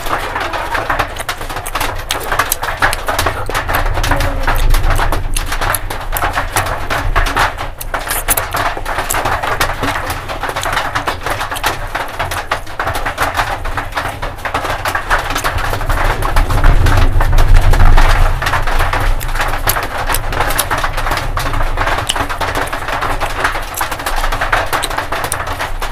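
Close-miked chewing and wet mouth smacking of fried pork belly and rice, a steady run of small clicks and squelches, loudest about two-thirds of the way through.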